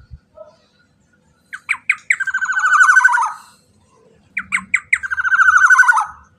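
Black-naped oriole (kepodang emas) giving two harsh rasping calls, each opening with a few sharp clipped notes and running into a rapid grating rattle, the second about three seconds after the first.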